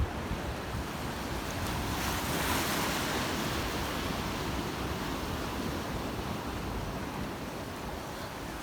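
Black Sea waves washing onto the shore, one wave surging up about two seconds in, with wind buffeting the microphone.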